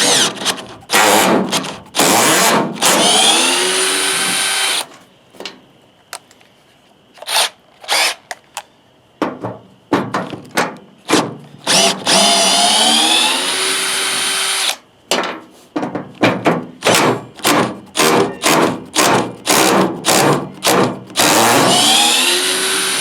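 Power drill running in bursts: two long runs, each a few seconds, with the motor pitch sweeping as it speeds up and slows. These are followed by a rapid series of short trigger pulls.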